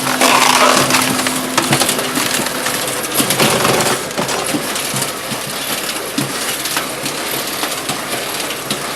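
Shinyoung KS45S hydraulic firewood processor splitting logs: wood cracking and crunching under the splitter, with split pieces clattering down. The loudest crunches come in the first second and again about three and a half seconds in, over a steady machine hum at the start.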